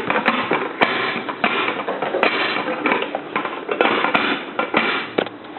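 Dishes and utensils clattering in a dense, irregular run of knocks and rattles that thins out near the end.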